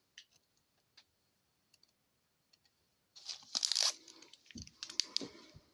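Hockey card pack wrapper crinkling and being torn open, starting about three seconds in after a few faint clicks.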